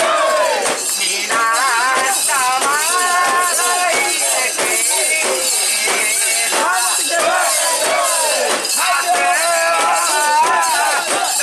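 Festival voices singing a drawn-out, wavering chant, with rhythmic metallic clinking throughout, the sound of a mikoshi being carried.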